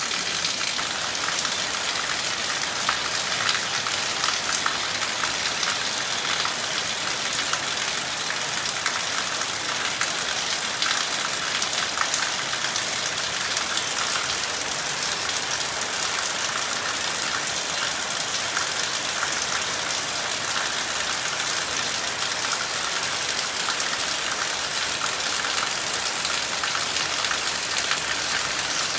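Steady rain falling on leaves and wet ground, a constant hiss scattered with many small drop taps.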